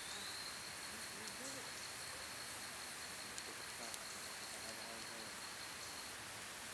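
Campfire crackling, with a few sharp pops over a steady hiss. A steady high-pitched insect buzz runs alongside and stops near the end.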